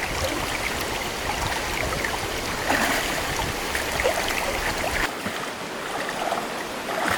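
Stream water running, with many small splashes and patters scattered through it. A low rumble under the water drops away about five seconds in.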